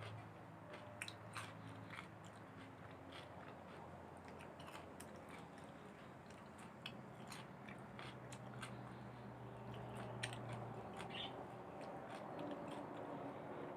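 A person chewing and biting grilled beef close to the microphone: many small, sharp, irregular clicks and crunches of mouth sounds over a faint steady low hum.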